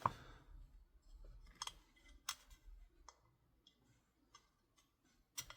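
A few faint, scattered clicks and taps of small airsoft rifle parts being handled and tested during reassembly.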